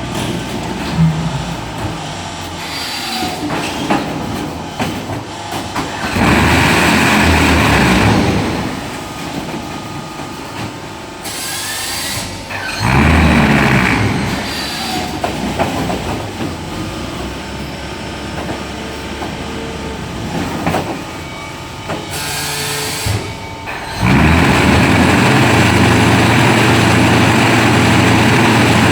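Concrete block making machine running with a steady mechanical clatter and clicks, broken by loud rumbling stretches of a couple of seconds about six and thirteen seconds in, and a longer one from about twenty-four seconds on.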